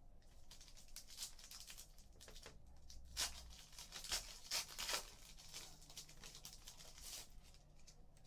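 A trading card pack's wrapper being torn open and crinkled, with a cluster of sharper tearing rustles about three to five seconds in, and cards being handled.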